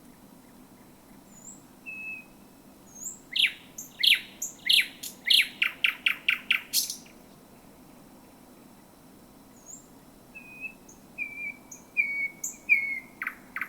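Thrush nightingale singing: a thin whistled note, then a loud series of sharp downward-sweeping strokes that speed up into a rapid volley, and after a pause a quieter phrase of short whistled notes.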